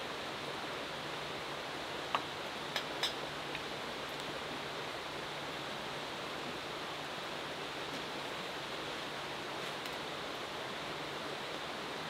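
Steady rain falling, an even hiss with no break, with a few light ticks about two to three seconds in.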